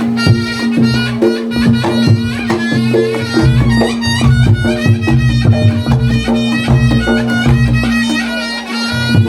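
Reog Ponorogo gamelan music: a slompret shawm plays a wavering, reedy melody over a steady held note, with drum strokes and repeated low gong-like beats.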